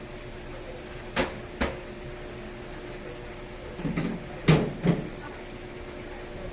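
Several short, sharp knocks of hard objects, two about a second in and a cluster a little after the middle, over a steady hum.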